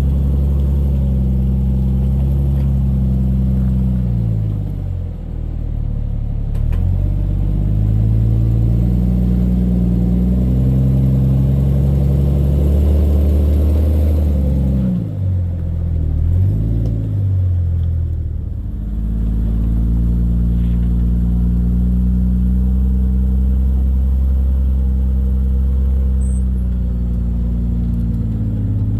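Rock-crawling Jeep Cherokee XJ's engine running under load, mostly steady, with a dip in revs about five seconds in and a run of quick rises and falls in revs around the middle as the throttle is worked over obstacles.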